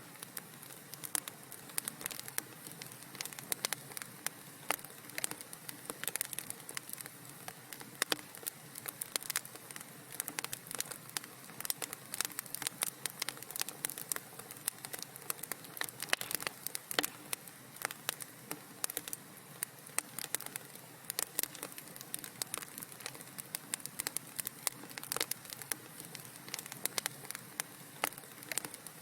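Wood fire crackling in a fireplace: a steady soft hiss with many irregular sharp pops and snaps, several a second.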